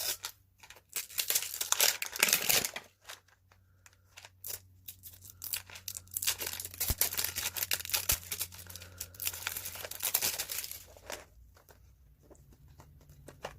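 Plastic wrapping on a Zuru Mini Brands toy capsule being torn open and crinkled, in irregular bursts of rustling with sharp clicks.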